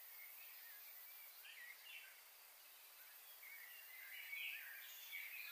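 Faint birds calling over a quiet open-air background: a few short chirps here and there, a little more frequent in the second half.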